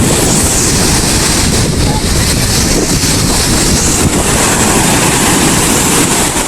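Sea waves washing on a beach, with strong wind buffeting the microphone in a loud, steady rumble.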